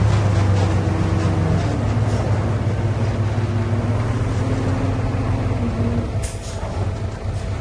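Diesel engine of heavy earthmoving machinery running steadily, its hum easing off and fading a little after six seconds into rougher mechanical noise with a short clatter.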